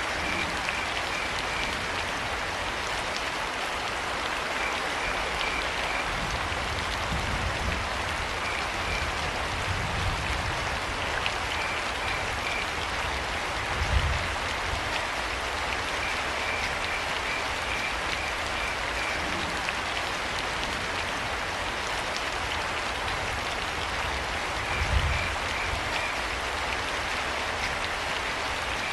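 Steady rain, with crickets chirping in short trains of quick pulses every few seconds. A brief low rumble swells up twice, about halfway through and near the end.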